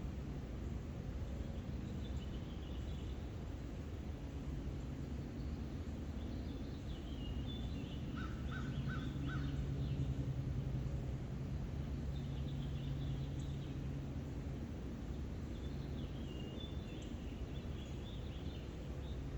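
Birds chirping in scattered clusters of high calls, with a run of four short lower notes in the middle, over a steady low hum.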